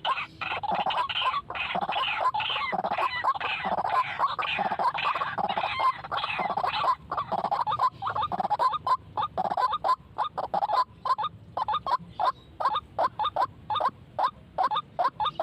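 White-breasted waterhens calling: a dense, overlapping chorus of croaking calls that thins about halfway through into a steady run of separate repeated notes, about four a second.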